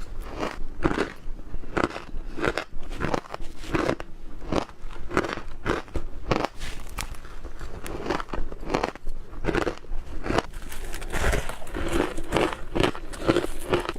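Squeaky ice being bitten and chewed close to the microphone: a dense run of crunches and squeaks, several a second.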